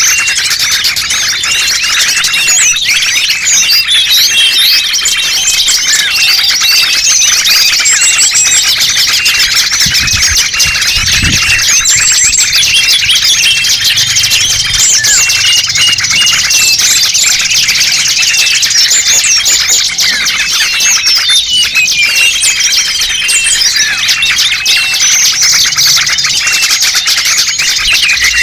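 Bird-lure recording: a dense, unbroken chatter of many small birds' high chirps, twitters and short whistles, all overlapping. It is meant to draw small wild birds in. A brief low rumble comes about ten seconds in.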